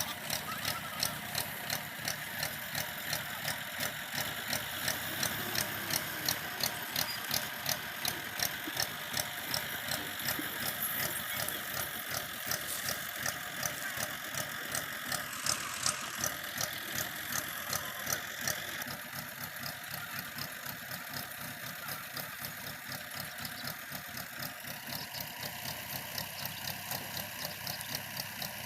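Diesel tractor engine running with a regular knocking pulse. About two-thirds of the way through, the beat becomes quicker and a little quieter.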